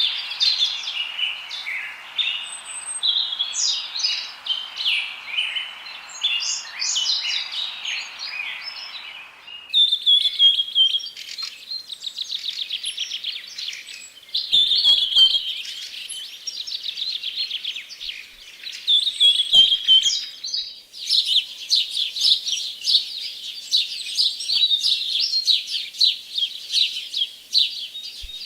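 Small songbirds chirping and singing continuously in rapid high trills and chirps. A steady rushing hiss lies under the first ten seconds and cuts off abruptly. The song changes character suddenly twice, as between spliced recordings.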